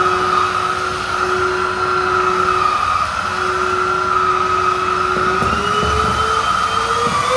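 Tenka Ryohin Kaze K2 cordless handheld vacuum cleaner running with a steady whine. About five seconds in, its motor pitch starts to rise as auto mode raises the suction power.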